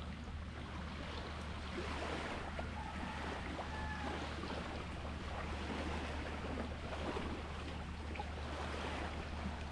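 Sea waves washing on the shore, a steady wash that swells gently a couple of times, with a steady low hum underneath.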